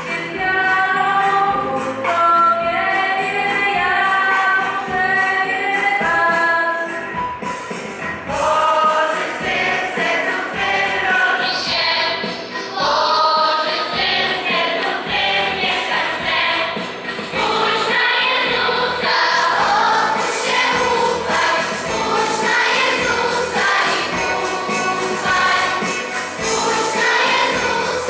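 Choir singing a Polish Christmas carol (kolęda), with a melody that moves in sustained sung notes.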